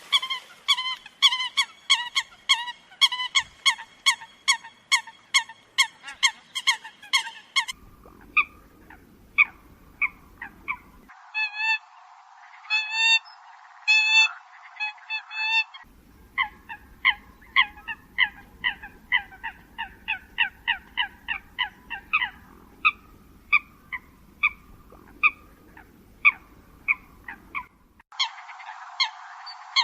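Eurasian coots giving short, repeated honking calls in quick series, often several notes a second. The track is made of spliced recordings, so the background hiss and tone change abruptly a few times.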